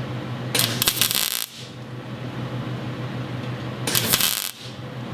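MIG welder laying two short tack welds, each a brief burst of crackling arc under a second long, about three seconds apart.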